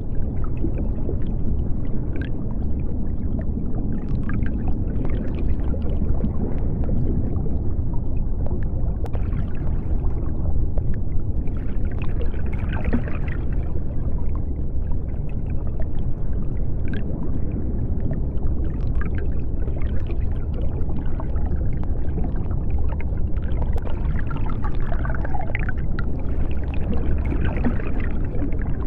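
Underwater deep-sea ambience: a steady deep rumble with scattered faint crackles and clicks.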